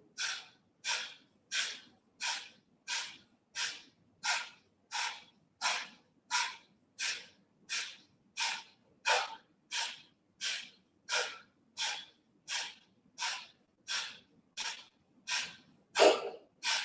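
A woman doing Kapalabhati breathing: a steady run of short, sharp, forceful exhalations, about one and a half a second, each pushed out by a snap of the belly, with silent passive inhales between.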